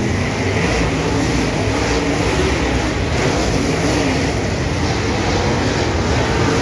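Dirt track race cars running at speed on the oval, several engines at once, their pitch rising and falling as they go around.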